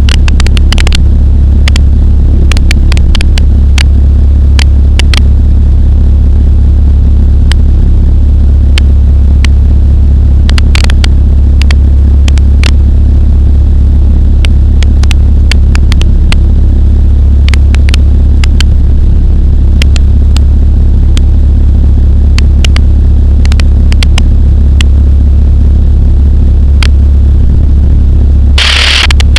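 Pulsar XP microlight's engine droning steadily in level flight, a constant low hum with scattered sharp clicks over it.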